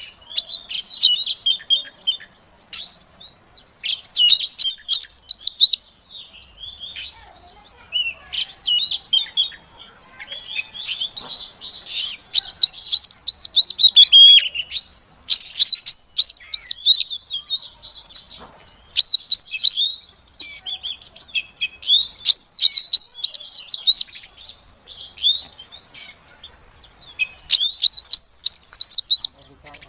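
Female Oriental magpie-robin (kacer) calling to a male: rapid runs of high chirps and twitters in bursts, with short breaks between them.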